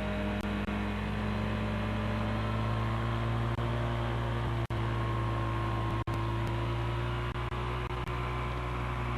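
Rotax 447 two-cylinder two-stroke aircraft engine running at a steady, even pitch, broken by a few brief audio dropouts.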